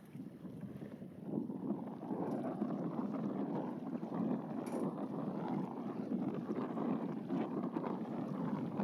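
Wind buffeting the microphone: a fluctuating rush that grows louder about a second and a half in.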